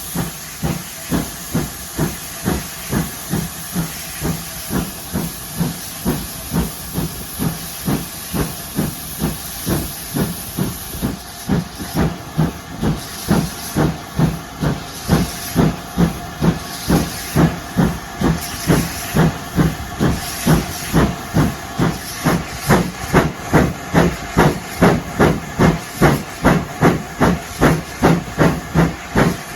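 Steam locomotive working under steam, its exhaust beating in an even rhythm of a little over two chuffs a second over a steady steam hiss. The beats grow louder partway through.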